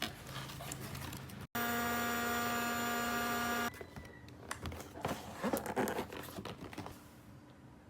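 Plastic toy pieces and packaging handled, with small clicks and rustles. About a second and a half in, they break off into a steady electronic buzzing tone lasting about two seconds, after which the handling resumes.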